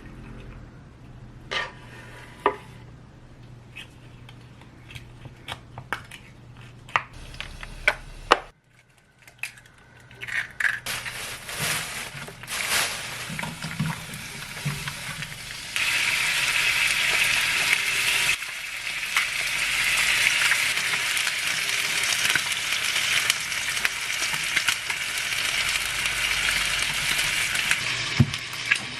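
A few scattered clinks and knocks of kitchen utensils come first. Then, about a third of the way in, food starts sizzling as it fries in a pan. The sizzle gets louder about halfway and carries on steadily, with occasional utensil clicks as the food is stirred.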